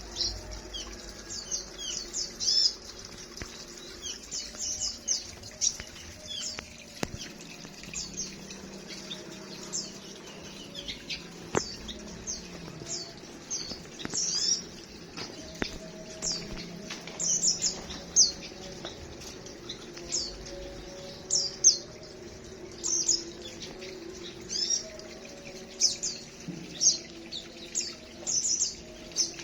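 A flock of small aviary birds chirping busily after feeding: many short, high, sharp chirps, coming in quick clusters throughout, with wings fluttering as they move about.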